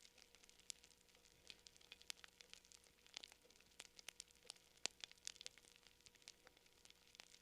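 Campfire crackling: irregular quiet snaps and pops several times a second, with a few louder pops about three and five seconds in.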